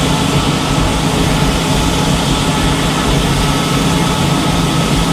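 An engine running steadily at a constant speed: a continuous hum with a few steady low tones.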